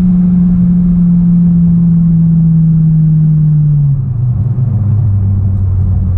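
Honda Civic Type R FK8's turbocharged 2.0-litre four-cylinder engine and 3-inch exhaust droning steadily at cruise, heard from inside the cabin over low road rumble. About four seconds in, the engine note drops in pitch as the revs fall.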